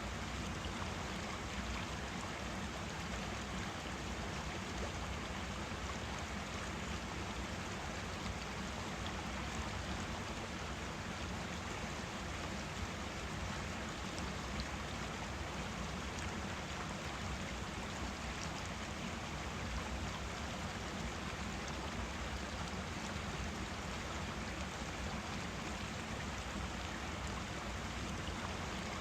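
Forest stream flowing and babbling steadily, an even rush of running water with no breaks.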